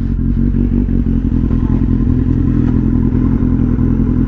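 Superbike engine running steadily at a constant speed, its low exhaust note holding one pitch with a fast, even pulsing.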